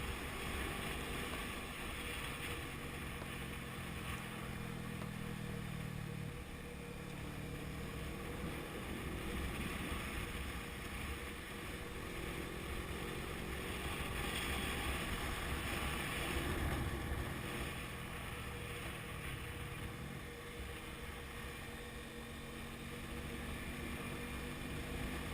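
Honda CB500F's parallel-twin engine running under way, its pitch rising and falling as the revs change, under a steady rush of wind noise.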